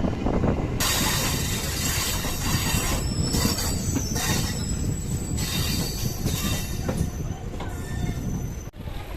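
MEMU electric train running on the rails, its steel wheels squealing with shrill high screeching tones over a low rumble; the squeal sets in about a second in.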